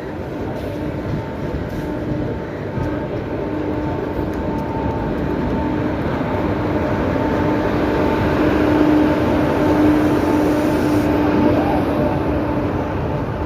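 Indian Railways WAP-4 electric locomotive and its passenger coaches rolling into the station: a steady rumble of wheels on rail, with faint steady tones over it, growing louder past the middle and easing slightly near the end.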